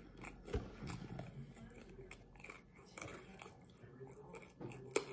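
Close-up chewing of a mouthful of crispy breaded teriyaki chicken, with small crunches and wet mouth clicks; a sharp click just before the end is the loudest sound.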